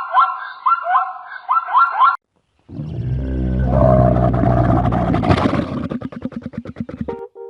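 A camel's low, drawn-out call, starting a little under three seconds in and breaking into a fast rattle of pulses before it stops. Before it, light plucked-string music plays and stops about two seconds in.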